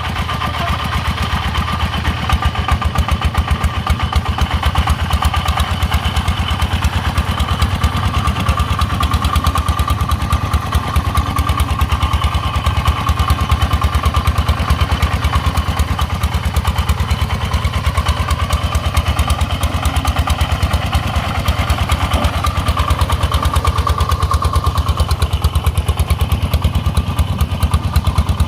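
Single-cylinder diesel engine of a công nông farm truck chugging steadily under load, a fast, even pulse of exhaust beats.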